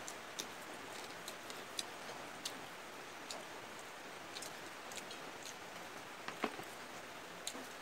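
Eating sounds: chewing and lip smacks from people eating fried chicken wings and rice by hand, heard as small irregular clicks over a steady hiss.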